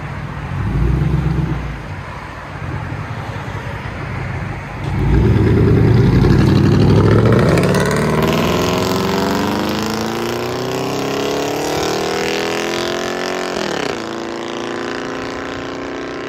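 2008 Dodge Dakota's 4.7-litre V8 running through a true dual straight-pipe exhaust. It gives a short rev about a second in, then pulls hard from about five seconds in, its pitch climbing steadily for about eight seconds. Near the end the pitch drops sharply and the engine runs on steadily.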